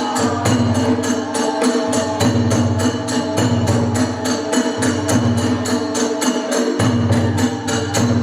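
Kagura ensemble music: metal hand cymbals clash about four times a second over drums, with a sustained melody held above them.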